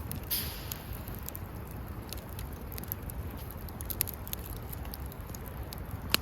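Wood fire crackling, with scattered sharp pops and one loud snap near the end, over a steady low rumble.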